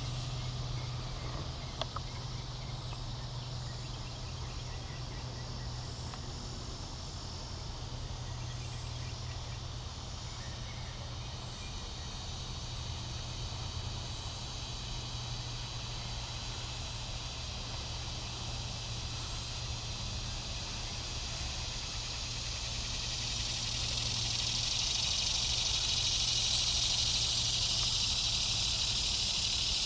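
Chorus of cicadas, the calls of Neotibicen tibicen, Neotibicen similaris and Neocicada hieroglyphica, making a steady high buzzing. About two-thirds of the way through, one louder, nearer buzz swells up and holds.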